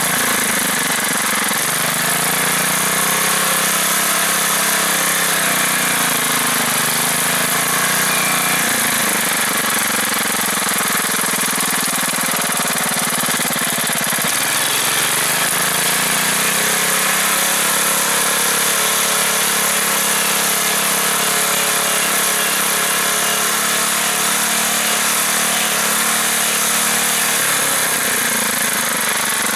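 Small air-cooled engine of a homemade 4x4 mini tractor running as the tractor drives. Its speed rises in the first couple of seconds, drops back around nine seconds in, rises again around fifteen seconds and falls near the end.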